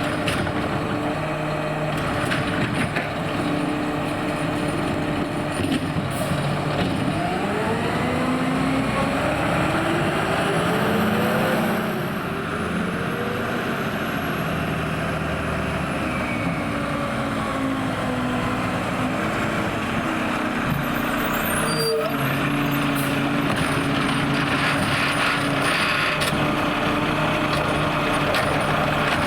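Mack LR garbage truck with a McNeilus ZR body running: the engine idles steadily, rises in pitch from about six seconds in, holds higher for several seconds, then settles back to idle.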